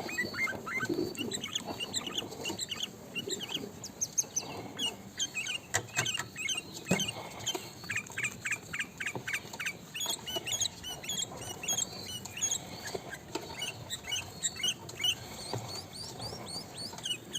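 Sooty-headed bulbul (kutilang) calling: runs of short, quick chirps that repeat throughout, with a few sharp clicks.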